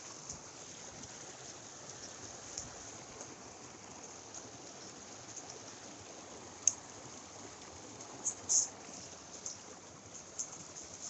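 Mountain stream water running steadily, with a few short sharp clicks about two-thirds of the way in.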